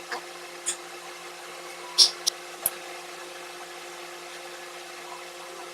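A steady low hum with a handful of brief clicks and rustles.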